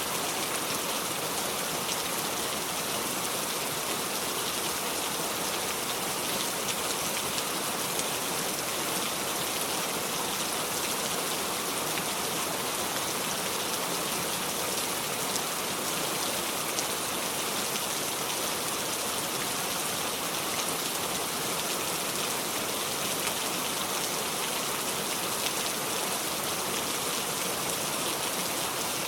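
Steady heavy rain falling, an even hiss without thunder.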